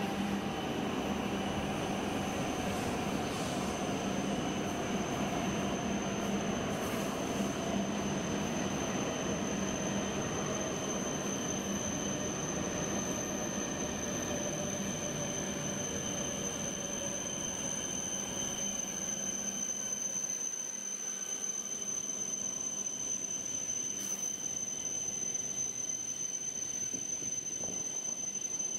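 An E7 series Shinkansen train running slowly past on its way into the station: a low rumble of wheels on rail with a motor whine that falls in pitch as the train slows, fading out about twenty seconds in as it moves away. A steady high-pitched tone continues throughout.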